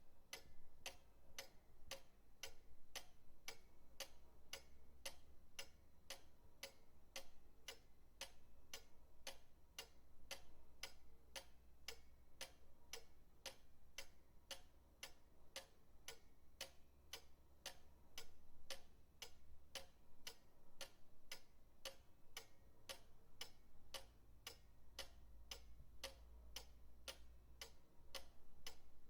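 Pendulum clock ticking steadily and evenly, about two ticks a second, over a faint low hum.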